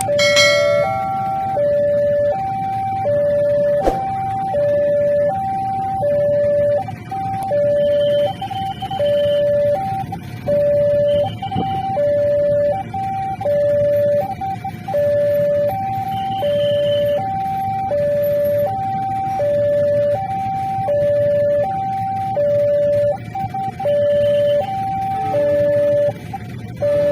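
Electronic two-tone warning alarm of a railway level crossing: a high tone and a low tone alternate steadily, about one full high-low cycle every second and a half, sounding while the crossing barriers are down. A steady low rumble runs underneath.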